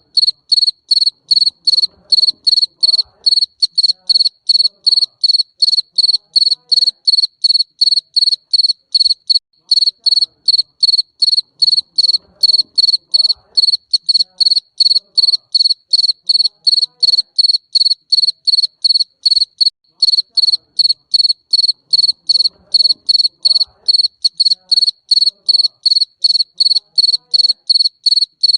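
Garden cricket chirping in an even, unbroken rhythm of about three high-pitched chirps a second.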